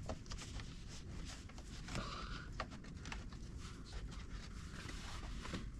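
Faint scattered clicks and light rustling from hands handling the wiring and plastic trim, over a low steady background hum.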